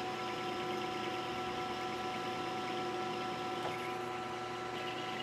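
Metal lathe running with a steady whine of several constant tones over a mechanical hiss; a higher tone joins a moment in.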